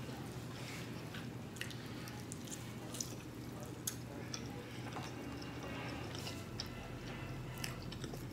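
Mouth noises from eating a smothered pork chop by hand: chewing with scattered small wet clicks and smacks, over a faint steady low hum.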